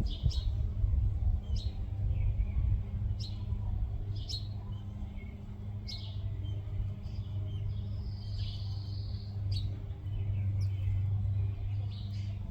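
Small birds chirping in short, high calls every second or so, with one longer warbling call near the end, over a steady low rumble.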